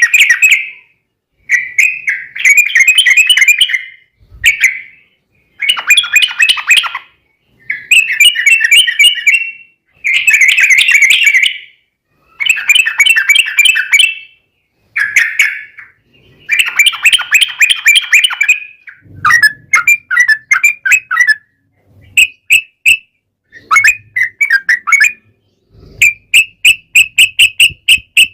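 Yellow-vented bulbul (trucukan) giving its fast bubbly chattering song in repeated bursts of a second or two, each broken by brief pauses, the rapid 'ropel' fighting-style calls used to provoke other bulbuls to answer. Near the end the phrases give way to a quick even run of short notes.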